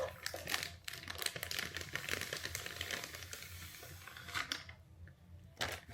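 Packaging crinkling and rustling with small clicks and taps as a curling iron is taken out of its box; it dies down about four and a half seconds in.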